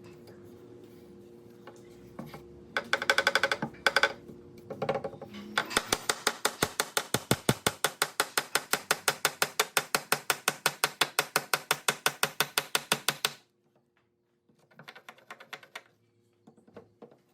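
Sharp, even tapping at about six strikes a second for about eight seconds, after a short burst of quicker taps; fainter taps follow near the end.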